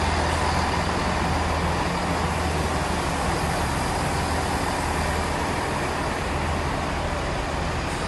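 Diesel engines of a British Rail class 166 diesel multiple unit running with a steady low hum, easing off slightly toward the end.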